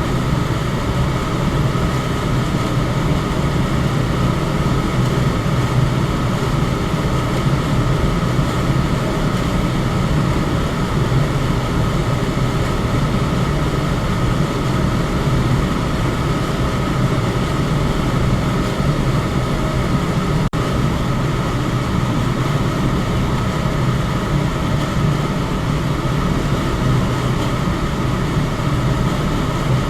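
Electric fan running steadily: an even whoosh of moving air over a low hum, with a faint steady tone higher up. There is a split-second dropout about twenty seconds in.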